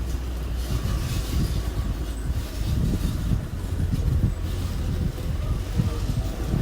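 Small bulldozer's diesel engine running with a steady low drone and irregular clanking on top.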